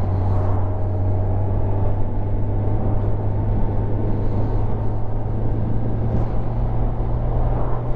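Kawasaki 1000cc Ninja's inline-four engine running at a steady cruise, with road and wind noise around it.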